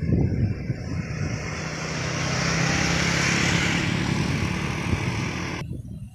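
Heavy vehicle passing close by, its engine and tyre noise swelling to a peak about three seconds in, then cutting off suddenly near the end.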